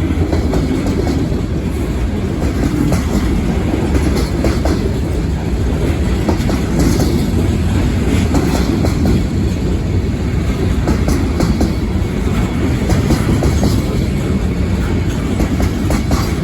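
Freight cars of a local trash train rolling past at speed: a steady rumble with the wheels clacking over the rail joints.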